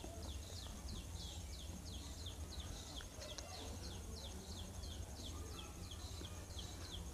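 A bird calling over and over, short chirps that fall in pitch, about three a second, over a low steady rumble.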